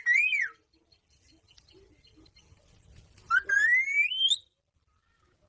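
Parrot whistling: a short whistle that rises and falls at the start, then, a little over three seconds in, a longer whistle that climbs steadily in pitch for about a second.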